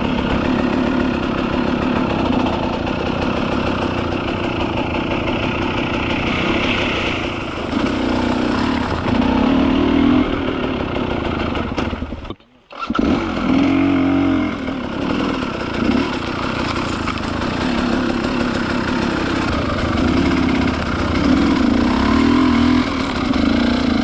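Kovi 300 two-stroke enduro motorcycle engine running under changing throttle, the revs rising and falling again and again. The sound drops out for about half a second near the middle.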